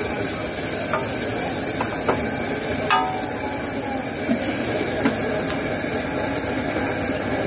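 Chopped chicken, onion and green chilli sizzling in oil on a large flat griddle, with a few sharp clinks of a metal spatula against the griddle.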